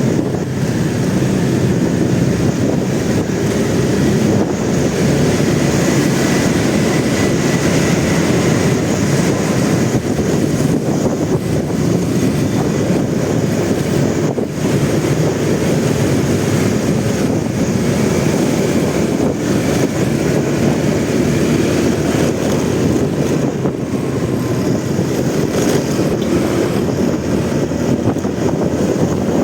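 Motorcycle running steadily while riding, with constant wind rumble on the microphone.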